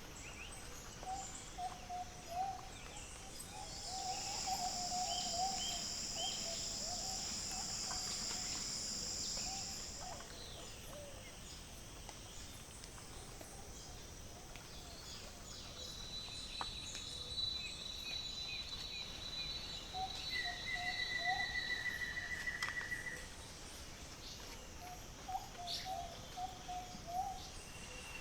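Natural ambience of insects and birds. High steady insect buzzes come and go, one from about 4 to 10 seconds in and another later, over a bird repeating short, low call notes.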